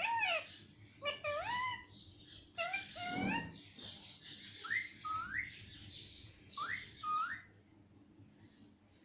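Pet parrot giving a run of loud whistled calls that slide up and down in pitch, falling quiet about seven and a half seconds in.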